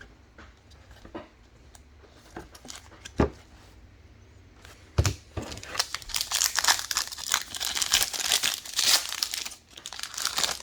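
A trading-card pack wrapper being torn open and crinkled: a couple of sharp knocks, then a dense crackle from about halfway through that stops just before the end.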